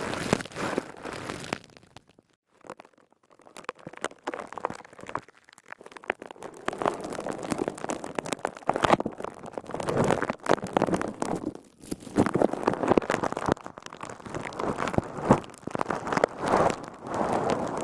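A crisp, crackly sponge being squeezed and worked close to the microphone, crackling and squishing in uneven bursts, with a brief pause about two seconds in.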